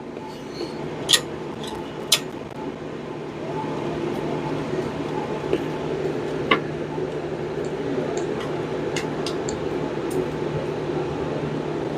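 Steady mechanical hum, growing a little louder about three and a half seconds in, with a few scattered light clicks and taps of tools and engine parts being handled.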